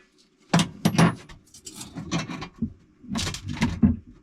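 Metal tools and engine parts clanking and clinking as they are handled, in several irregular bursts with a brief metallic ring near the start.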